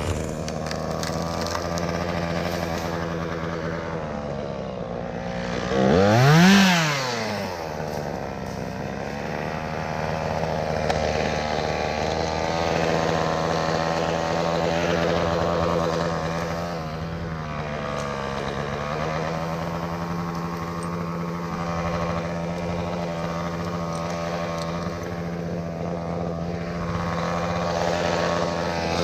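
Two-stroke chainsaw running steadily at low throttle, revved up briefly once about six seconds in, then settling back.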